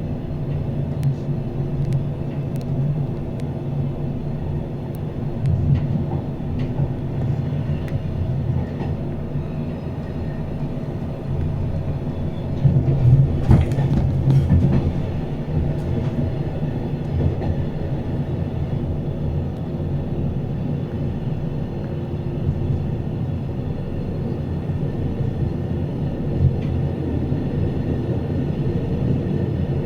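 Glacier Express train running along the track: a steady low rumble of wheels on rails with scattered light clicks, growing louder for a couple of seconds about halfway through.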